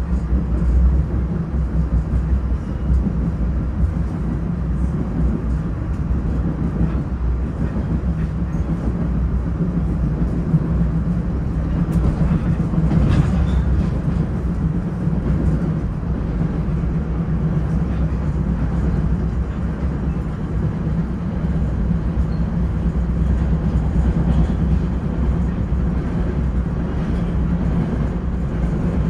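Steady rumble inside a Bombardier Comet IIM passenger coach under way: wheels running on the rails and the car body vibrating, heaviest in the low bass.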